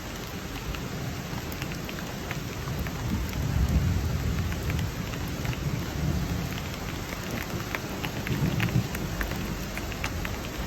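Steady rain falling, with individual drops ticking sharply through it. A low rumble of thunder swells about a third of the way in and again near the end.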